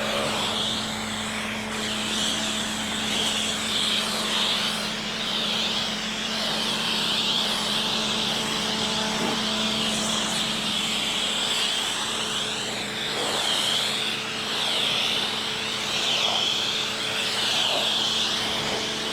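Pressure washer rinsing a car through a wide 40-degree nozzle: a steady hiss of water spray over the even hum of the machine's motor and pump.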